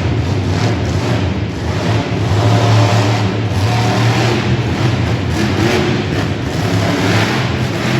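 Monster truck's supercharged V8 engine running hard and loud, the revs rising and falling as the truck is driven.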